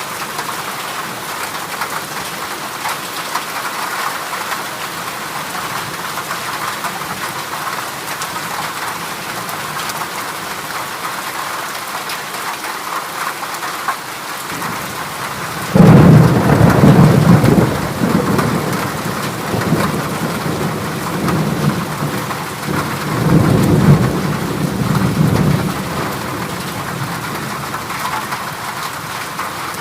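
Heavy rain drumming steadily on a corrugated zinc roof. About sixteen seconds in, a rumble of thunder breaks in suddenly at its loudest, swells again a couple of times and dies away after about ten seconds.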